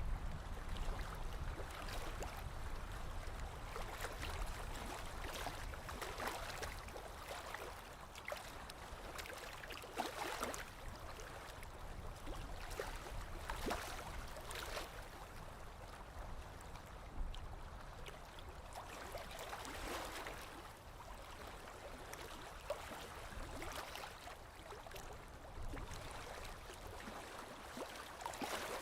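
Small waves lapping on a lakeshore: soft, irregular splashes every second or two over a steady wash of water.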